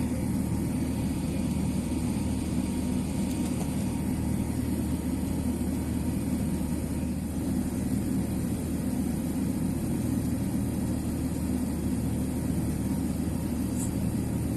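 Jet engines of an Emirates Airbus A380 at takeoff power, a steady low rumble that holds at an even level.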